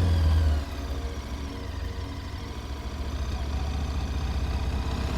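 KTM 1290 Super Adventure motorcycle's V-twin engine running on the road; the low engine sound drops sharply about half a second in, then slowly builds again.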